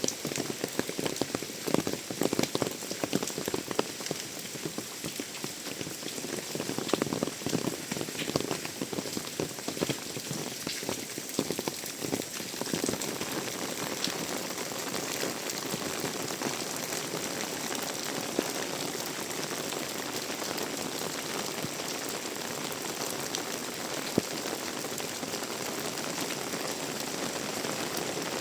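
Heavy tropical rain pouring down, with many close, irregular drop impacts in the first half that settle into a steadier, even downpour hiss about halfway through.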